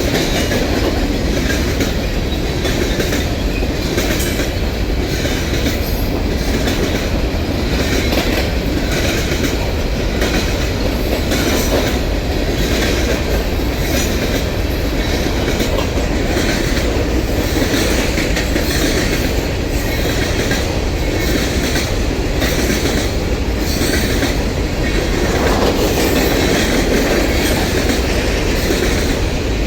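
A train rolling steadily past, wheels running on the rails and clicking over rail joints.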